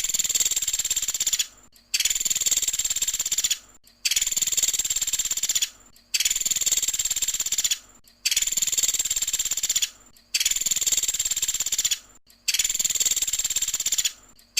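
Pelatuk sampit bird singing its rapid-fire 'tembakan' song: a high, fast trill, each about 1.7 s long, repeated about every two seconds with short pauses, seven times over.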